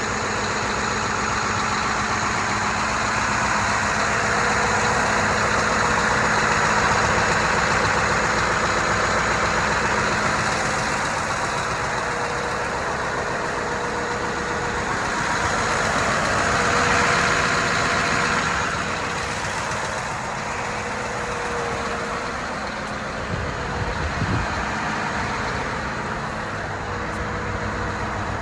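Scania R500 8x2 truck's diesel engine running steadily at idle. It swells louder twice, around seven and seventeen seconds in, and there is a brief knock near the end.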